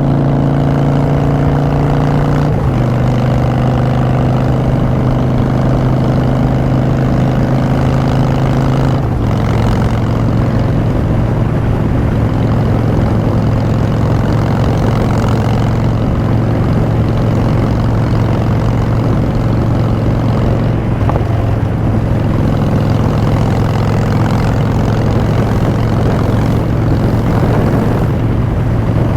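2016 Harley-Davidson Street Bob's V-twin running through Vance & Hines Short Shots exhaust while riding. The exhaust note drops in pitch twice, at about two and a half seconds and about nine seconds in, then holds steady.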